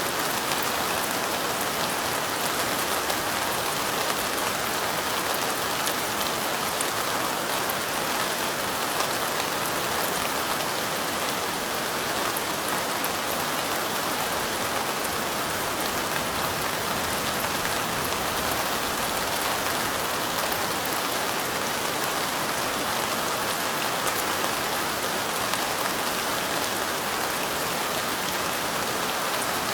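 Light rain falling steadily: an even hiss with faint scattered drop ticks.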